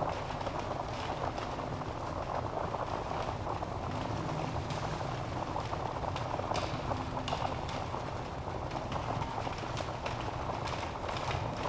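Wood fire burning in a fireplace: a dense, steady crackle with occasional sharper pops of the logs.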